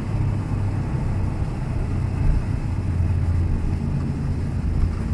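Nissan GT-R's twin-turbo V6 running at low, steady revs with road noise, heard from inside the cabin as the car is driven slowly.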